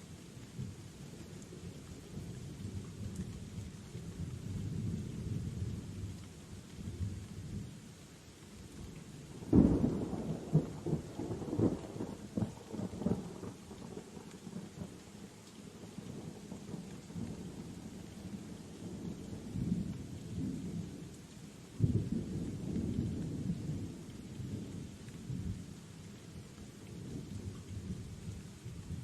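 Steady rain with low rolling thunder. A sharp thunderclap comes about a third of the way in and rumbles on for several seconds. A second clap follows about three-quarters of the way through.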